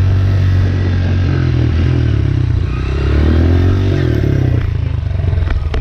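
Dirt bike engine running hard, its pitch rising and falling as the throttle is worked, with a few sharp clatters near the end.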